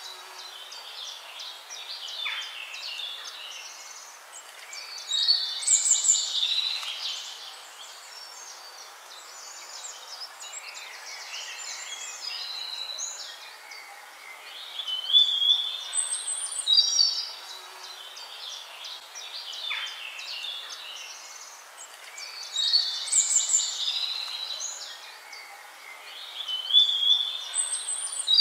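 Birdsong: clusters of high chirps and trills over a faint steady hiss, with the same sequence of calls coming back about every 17 seconds, like a looped nature recording.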